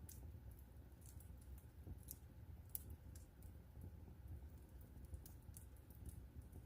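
Wood fire crackling: quiet, irregular sharp pops and snaps over a low steady rumble, one pop a little louder nearly three seconds in.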